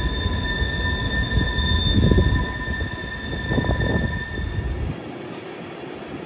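Freight train of tank cars rolling past: a heavy low rumble of wheels on rail with a steady high-pitched wheel squeal over it. The squeal stops and the rumble drops away sharply about five seconds in, leaving a fainter rolling noise.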